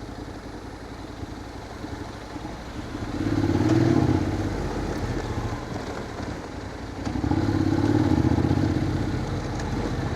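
Motorcycle engines running, swelling louder twice, about three seconds in and again about seven seconds in, each time for about two seconds.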